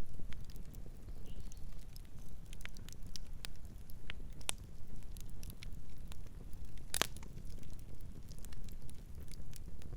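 Campfire crackling, with irregular snaps and pops and one louder pop about seven seconds in, over a low steady rumble.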